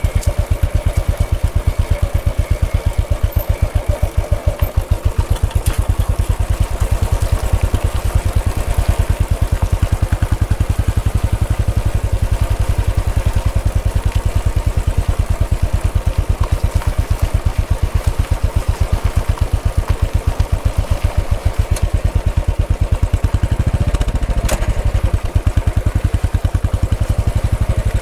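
Royal Enfield Bullet 500's single-cylinder engine running steadily, with an even thumping beat.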